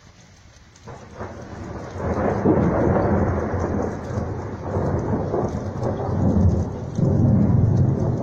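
Thunder rumbling over rain: a low rolling rumble sets in about a second in over a faint hiss of rain, swells within a second and stays loud.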